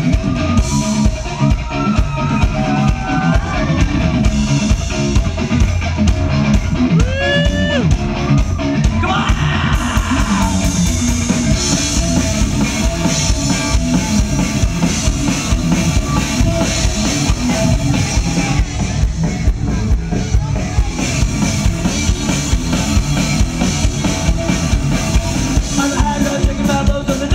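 Live rock band playing loudly: a driving drum-kit beat under melodic lines that slide in pitch.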